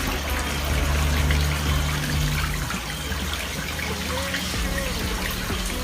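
Water splashing and trickling steadily from a garden pond's waterfall and fountain, driven by a submersible pump.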